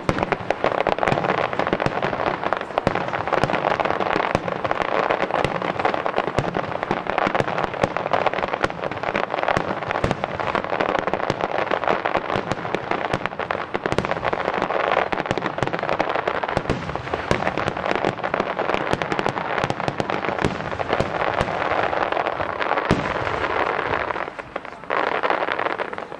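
Finale barrage of a large Japanese starmine fireworks display: many shells bursting at once, with dense continuous crackling and rapid sharp bangs. It falls away at the very end as the last shells fade.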